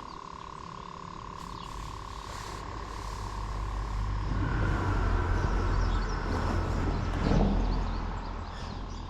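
A passing vehicle's low rumble builds up, is loudest just past the middle and fades away near the end. A steady high tone runs underneath.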